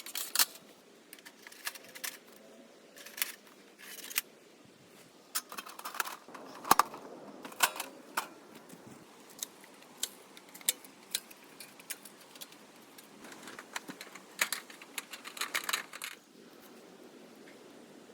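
Thin titanium wood-stove panels and parts clinking and tapping as they are handled and fitted together. The sharp metallic clicks come in irregular clusters, a few ringing briefly.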